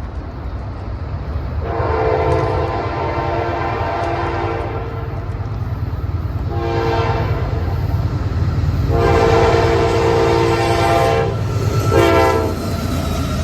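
Locomotive multi-chime air horn blowing four blasts, two long and two short, about two, six and a half, nine and twelve seconds in, over the steady low rumble of the passing train.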